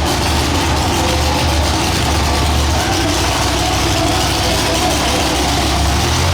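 Monster truck engine running at a loud, steady idle with a deep low rumble.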